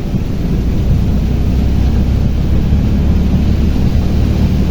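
Tuk-tuk riding along: a steady low rumble of the vehicle in motion, with wind noise on the microphone.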